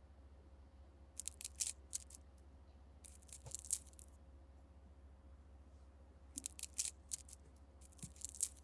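Four short bursts of small, sharp clicks and ticks from a zipper's metal slider and teeth being handled during a repair, over a faint steady hum.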